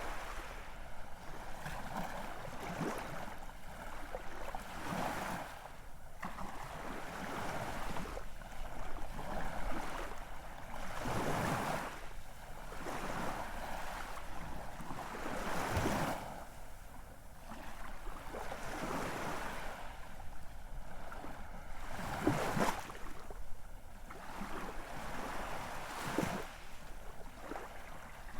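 Ocean surf: waves breaking and washing in, the sound swelling and falling back every few seconds, with the strongest breaks about halfway through and again near the end.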